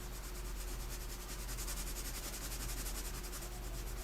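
2B graphite pencil shading on paper in quick, even back-and-forth strokes, a rapid scratchy hiss. A steady low electrical hum lies underneath.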